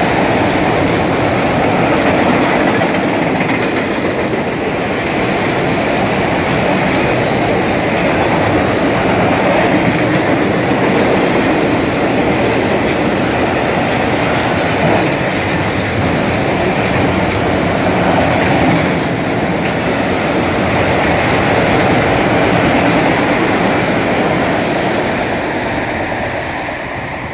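Freight train of enclosed autorack cars rolling past, steel wheels running on the rails in a loud, steady rumble and rattle. It fades away near the end as the last car goes by.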